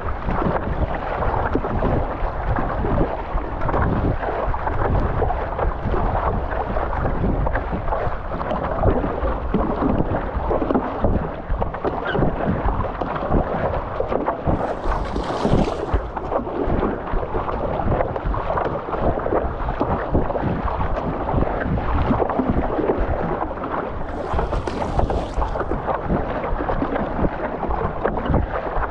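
Wind buffeting the microphone over rushing sea water and waves, as heard from a stand-up paddleboard in rough surf. Two short hissy splashes stand out, one about halfway through and one near the end.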